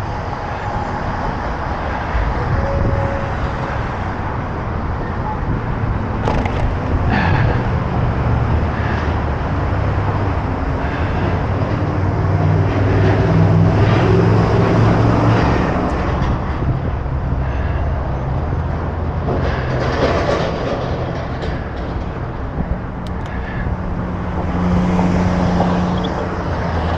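Road traffic: motor vehicles passing close by with a steady rush of noise. The engine hum is loudest in the middle and again near the end.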